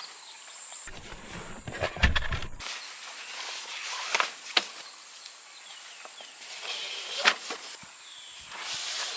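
Steady high-pitched insect buzzing, with scattered light clicks and knocks of camping gear being handled, the loudest a cluster about two seconds in.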